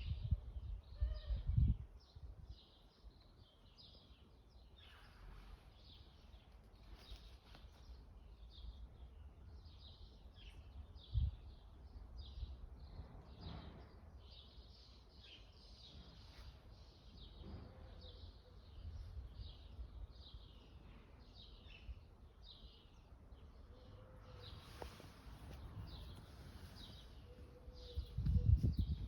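Birds chirping, many short high calls repeating over a faint steady background noise. A few low rumbles are heard near the start, once about eleven seconds in, and near the end.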